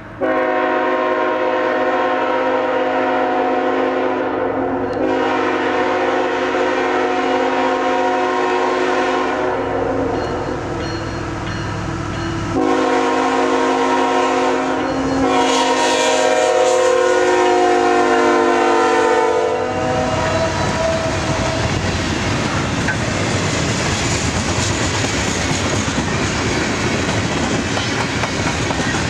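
The air horn of CSX locomotive 3391 sounds a chord in several long blasts for about twenty seconds as the train approaches. After that, the steady rumble and clickety-clack of loaded tank cars and freight cars rolling past on jointed track.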